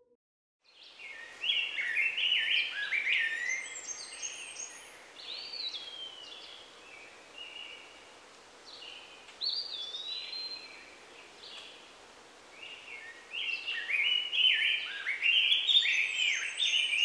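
Songbird singing in quick, tumbling phrases of chirps and short whistled glides. It comes in dense bouts with a sparser stretch in the middle, over a steady faint outdoor hiss, and starts just under a second in.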